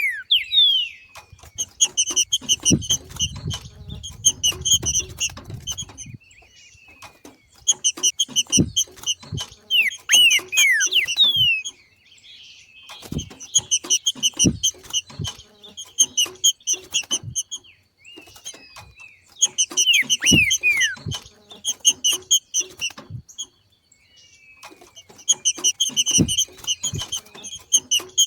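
Green-winged saltator (trinca-ferro) giving its 'macheado' call: about five bouts of rapid, high chattering notes mixed with short downward-sliding whistles, each bout a few seconds long with brief pauses between. This call marks a bird entering breeding condition.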